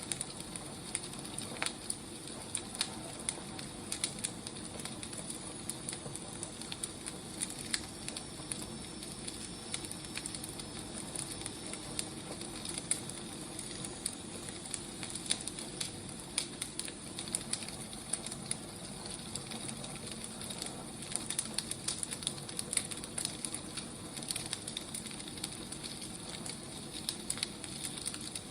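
Wood fire burning, a steady hiss with irregular crackles and pops from the burning firewood.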